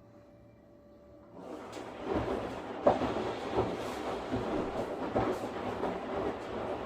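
Washing machine in a wash cycle. After a faint steady hum, the drum starts turning about a second and a half in. Water and laundry churn and slosh with a regular thud roughly every three-quarters of a second.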